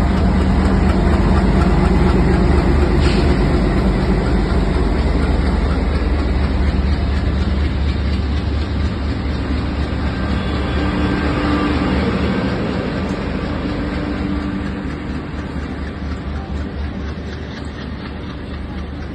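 WDM-3A diesel-electric locomotive's engine running under load with a steady low drone as it hauls a passenger train out, together with the rumble of the train rolling past; the sound is loudest about two seconds in and fades gradually as the train moves away.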